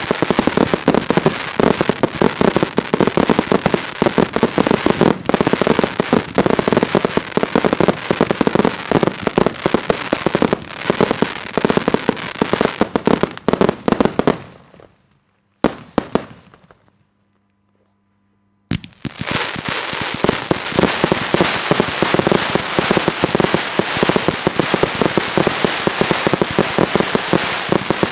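Daytime fireworks going off in a dense, rapid run of bangs and crackling. It dies away about halfway through, leaves a few seconds of near silence broken by one short burst, then starts again suddenly at full density.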